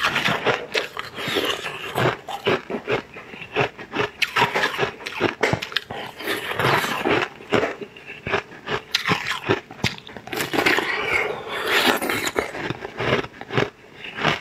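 Close-miked wet eating sounds of a person chewing and sucking on soft, gummy pink jelly, with many small irregular mouth clicks and smacks.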